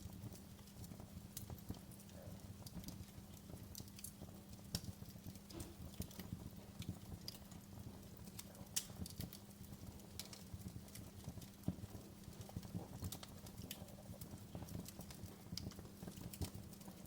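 Wood fire burning in a fireplace: irregular crackles and sharp pops, a few louder than the rest, over a steady low rumble of the flames.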